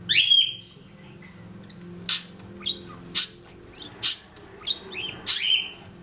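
Budgerigar calling: a loud rising call with a held note right at the start, then a run of short, sharp chirps about every half second.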